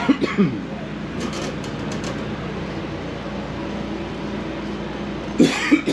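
Steady background hum with a low droning tone, the ambient noise of a busy event area. Short bits of voices come at the start and again near the end.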